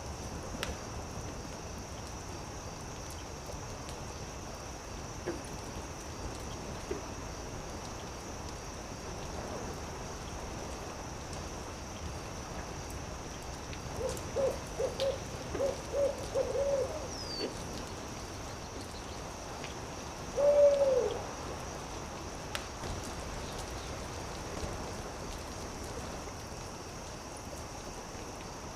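An owl hooting: a quick run of about eight short hoots about halfway through, then one longer hoot that falls in pitch a few seconds later, the loudest sound. Behind it runs a steady hiss with a constant high insect drone, with faint crackling clicks of a campfire.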